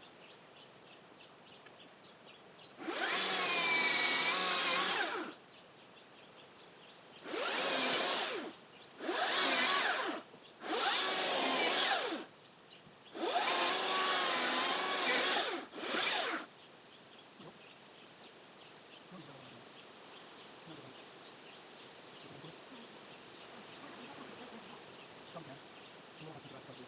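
Ryobi cordless power saw, most likely a chainsaw, run in six short bursts of one to two and a half seconds each. Its motor whine dips and rises in pitch within each burst.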